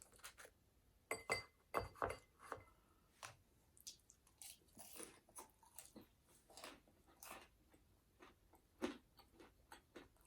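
Close-up eating sounds: irregular chewing and wet mouth smacks, with a few sharper clicks, loudest in the first couple of seconds.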